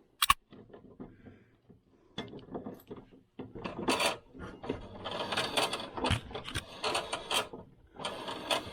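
Metal parts of a mower deck being handled and fitted: a sharp click just after the start, then irregular clinks, rattles and scraping.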